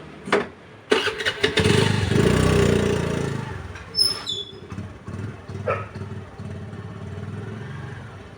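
A small engine starts about a second in, runs loud for a couple of seconds, then settles to a steady idle.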